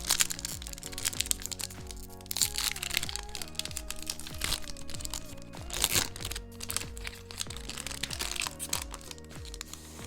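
Background music over the crinkling and crackling of packaging being handled, in several short bursts, the loudest about six seconds in.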